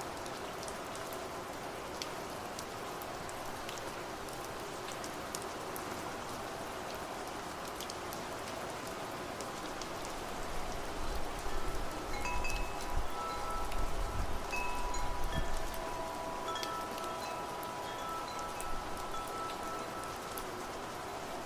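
Steady rain with wind chimes ringing in clear, overlapping tones from about halfway through. A low rumble swells in the middle, while the chimes are starting.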